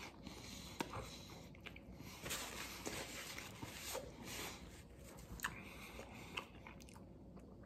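A person chewing food, faint mouth noises with a few small clicks. A paper napkin brushes across the mouth about four seconds in.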